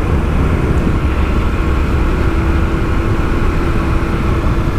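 Honda XR250L's single-cylinder four-stroke engine running at a steady pace while riding, under heavy wind rumble on the microphone.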